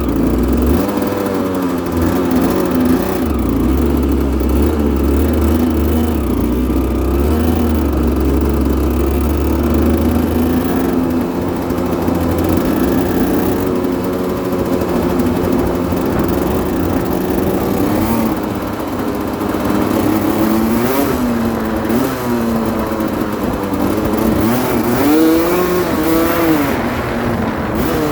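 Aprilia RS125's two-stroke single-cylinder engine running at a steady idle, with a couple of short throttle blips in the second half.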